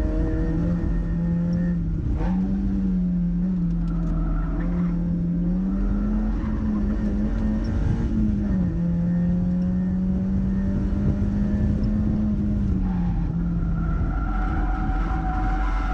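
Mazda MX-5's four-cylinder engine running hard on a race track, heard over steady road and wind noise. The engine note holds fairly even, rising and falling in pitch a few times before easing near the end.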